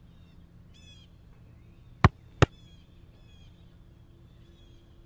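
Faint bird chirping over a low background hum, broken by two loud, sharp knocks in quick succession about two seconds in.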